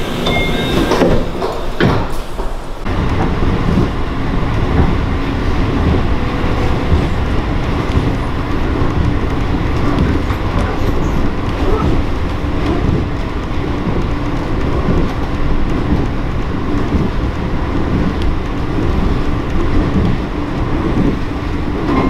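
Aichi Loop Railway electric train running along the track, heard from inside the passenger car: a continuous rumble of wheels on rail with a faint steady hum.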